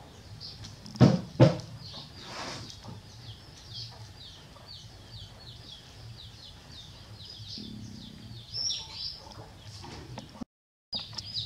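Birds peeping steadily, several short high falling chirps a second, with two loud knocks about a second in.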